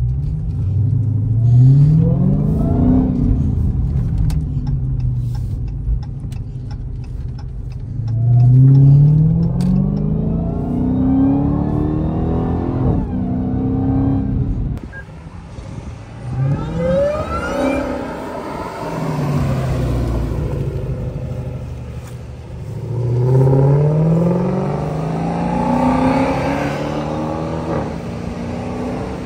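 Dodge Hellcat's supercharged 6.2-litre HEMI V8, on its stock intake, accelerating hard about four times, the engine note climbing in pitch and dropping back at each gear change.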